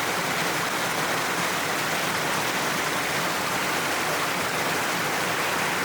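Waterfall pouring down a cliff face: a steady, even rush of falling water.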